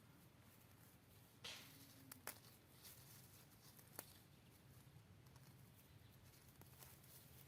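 Faint sounds of garden weeding: a short rustle of leaves and soil about one and a half seconds in, and a few sharp snaps or clicks of weeds being pulled, over a low steady hum.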